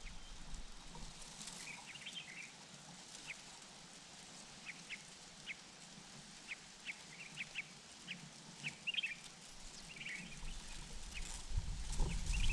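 Faint, short, high bird chirps, single and in quick little clusters, scattered across a quiet background. A low rumble builds near the end.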